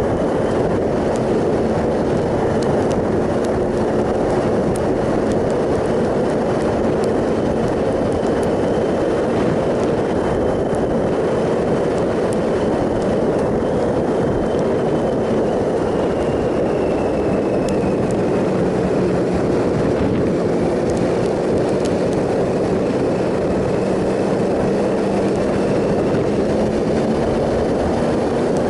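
Triumph Sprint ST 1050's three-cylinder engine running at a steady cruise under heavy wind and road noise. The engine note sags slightly about two-thirds of the way through, then climbs again near the end.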